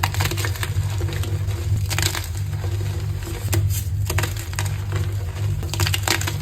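Dyed gym chalk blocks being crushed: dense crunchy crackling, with louder crunches about two seconds in, midway and near the end. A steady low hum runs beneath.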